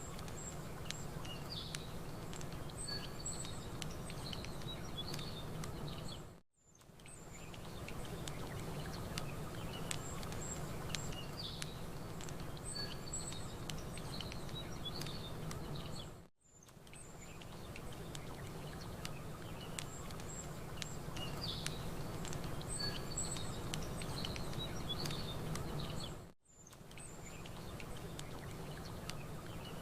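Layered nature ambience: small birds chirping over a steady low wash of lapping water, with faint sharp crackles from a campfire. The bed is a loop of about ten seconds that dips to near silence for a moment and fades back in three times.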